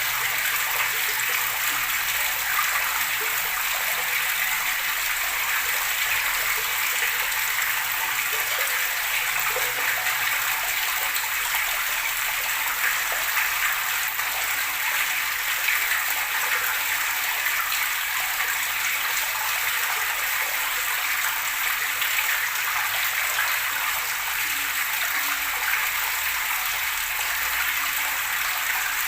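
Running water gurgling steadily, an even splashing rush with no pauses.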